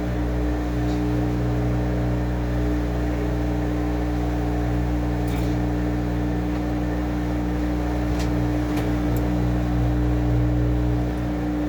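Washing machine running with a steady motor hum, its pitch holding constant throughout, with a few faint clicks.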